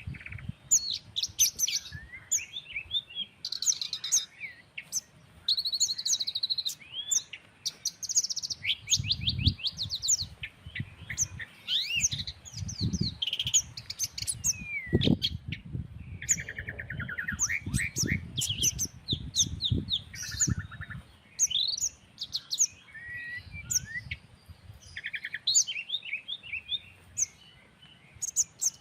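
Several birds of different kinds singing and calling over one another: quick chirps, rapid trills and short whistled glides. Through the middle there is a low rumble of breeze.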